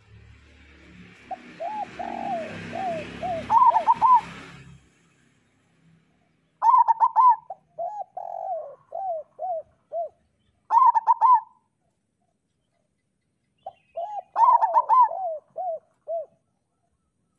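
Zebra dove (local perkutut) cooing: phrases of quick, clipped coos followed by a run of lower, falling notes, repeated about four times with short pauses between. A rushing noise with a low hum sits under the first few seconds.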